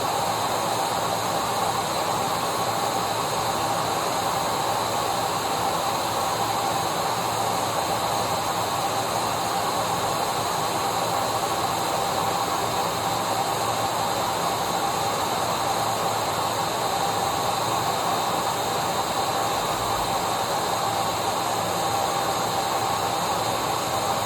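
Electric vacuum cleaner running steadily: an even rushing noise with a constant motor whine that does not change.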